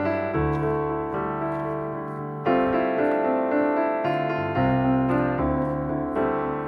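Background music played on piano: sustained chords with new notes struck every second or so, and a louder chord about two and a half seconds in.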